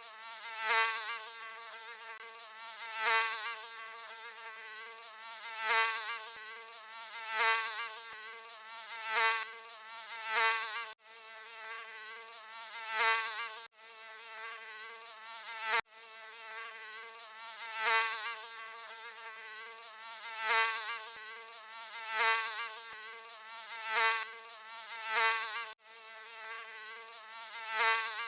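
Mosquito buzzing: a thin, high whine with wavering pitch that swells and fades about every two seconds, as if flying close past the ear. A few brief, sudden dropouts break it.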